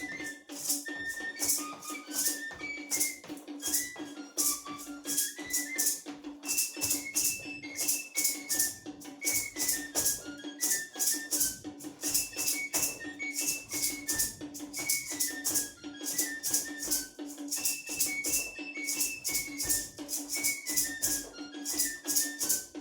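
Traditional Tabasco bird-dance music: a high whistle-like flute melody moving in quick stepwise notes over steady shaken rattles, with a constant low tone underneath.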